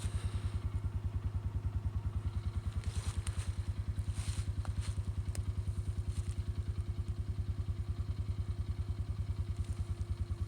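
A small engine running steadily with a fast, even, low chugging. A few light clicks and rustles come through about three to six seconds in.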